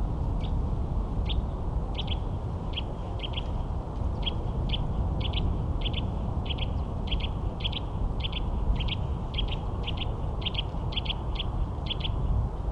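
A small bird calling over and over with short, high chirps, often in quick pairs, about two or three a second, over a steady low rumble.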